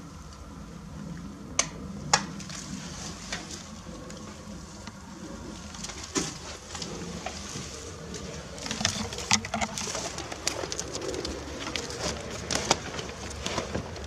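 Pigeon cooing, low and echoing in a small concrete room, with scattered clicks and crunches, denser in the second half.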